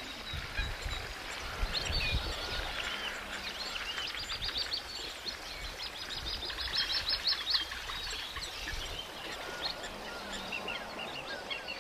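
Several wild birds chirping and calling together over a low outdoor rumble, with fast trills of many short high notes in the middle.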